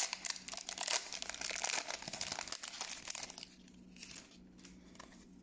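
Foil Pokémon booster pack wrapper crinkling and tearing open, with dense crackling for about three and a half seconds. After that it drops to faint, scattered ticks of the cards being handled.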